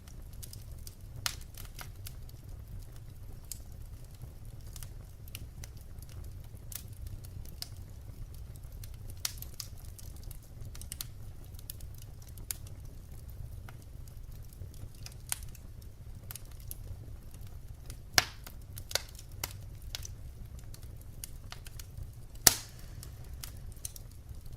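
Wood fire crackling: irregular sharp pops and snaps over a low steady rumble, with two louder pops later on.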